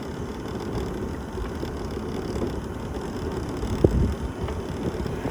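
Wind rumbling and buffeting on the microphone over a moving mobility scooter, with a single knock about four seconds in.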